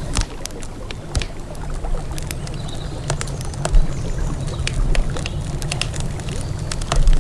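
Wood campfire crackling, with irregular sharp pops and snaps, over a steady low rumble of flowing river water.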